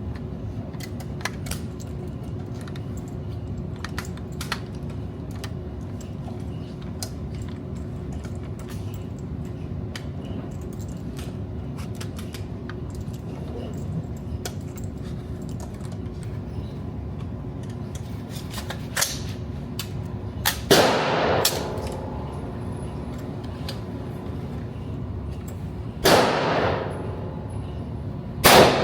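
Gunfire at a shooting range: scattered faint shots throughout, then a few loud, close shots with echoing tails in the last ten seconds, over a steady background hum.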